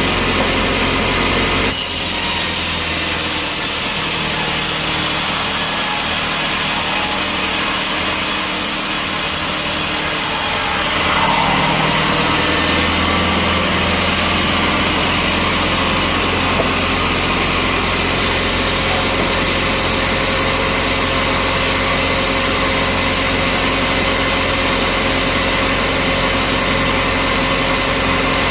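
A sawmill saw cutting through a log, with a hissing cut for the first ten seconds or so. Then a steady engine drone carries on.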